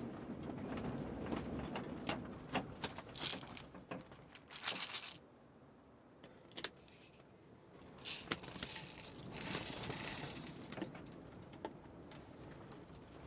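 Close-range handling noises: scattered clicks and knocks with two spells of rustling, like things being moved and sorted by hand.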